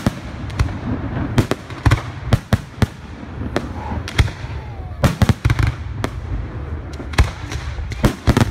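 Fireworks display: aerial shells bursting in an irregular run of sharp bangs, several in quick clusters, over a continuous low rumble.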